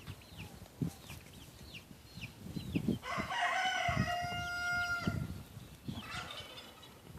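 A rooster crowing once, a held call of about two seconds starting about three seconds in, with short high chirps from other birds before it.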